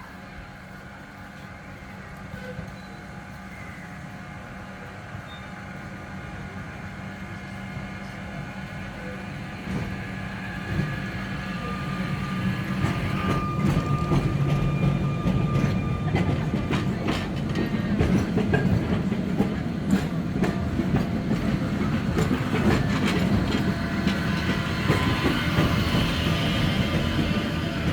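Sóller electric tram approaching on street track. Its running rumble grows steadily louder over about fifteen seconds and then holds, with frequent sharp clicks from the wheels on the rails.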